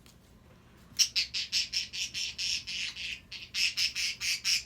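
Female budgerigar squawking: a rapid string of harsh, high-pitched calls, about five a second, starting about a second in.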